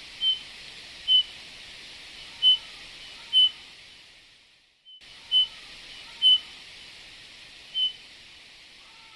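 Eurasian bullfinch calls: short, clear whistled notes about a second apart, seven in all, over a steady hiss that briefly cuts out about halfway through.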